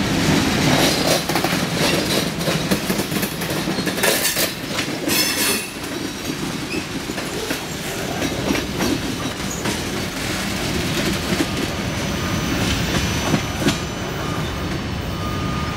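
Freight train boxcars rolling past on steel wheels, a steady rumble with rhythmic clickety-clack over the rail joints. Brief high-pitched wheel screeches cut in twice, about four and five seconds in.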